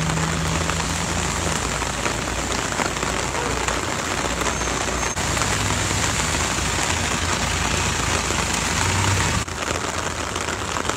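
Steady rain falling on a road and car bodywork, a constant dense hiss, with a low steady hum underneath. The sound breaks off briefly about halfway through and shifts slightly near the end.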